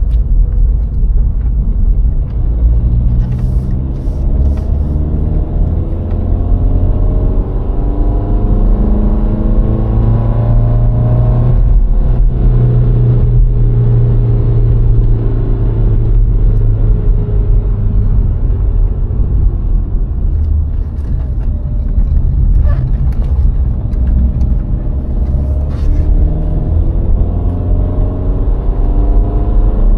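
VW Golf IV's 1.6 litre four-cylinder petrol engine and tyre and road rumble while driving, loud and steady. The engine note slowly rises and falls as the speed changes, with a few faint clicks.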